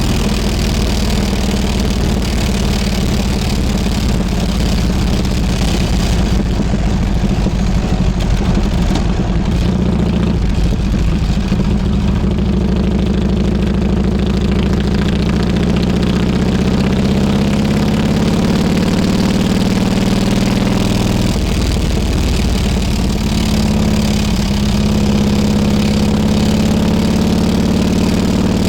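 Harley-Davidson Road King Classic's V-twin engine running under way, its note rising and falling with the throttle, with short breaks about a third of the way in and again about two thirds in, and climbing again near the end.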